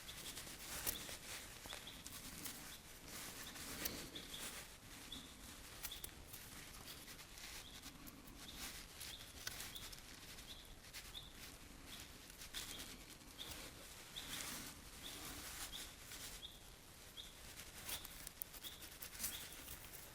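A small bird calling with a short, high chirp repeated every second or so, over scattered faint clicks and crackles.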